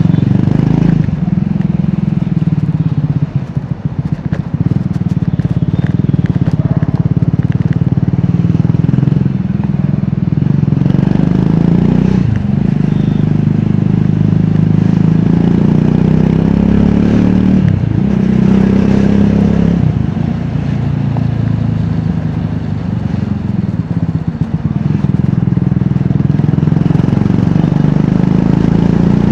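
Triumph Scrambler 400X's single-cylinder engine and exhaust under way, its pitch climbing and dropping with throttle and gear changes. It eases off briefly about three seconds in and again past twenty seconds.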